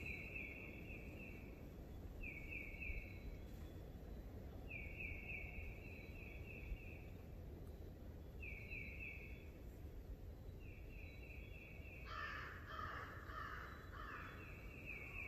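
A songbird repeats a short, rapid run of high notes every two seconds or so. About twelve seconds in, a wild turkey gobbles once, fainter and lower than the songbird.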